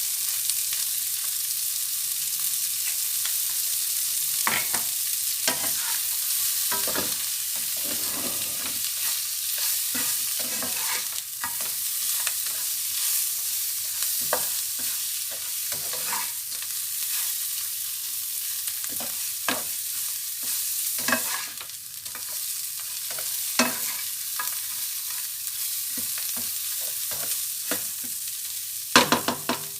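Shrimp and garlic frying in butter in a pan with a steady sizzle, while a utensil stirs them, clicking and scraping against the pan. Near the end there is a quick run of louder knocks.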